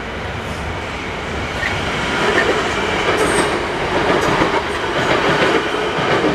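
South Western Railway Class 450 Desiro electric multiple unit passing over the level crossing, its wheels and running gear making a steady rail noise that grows louder about two seconds in.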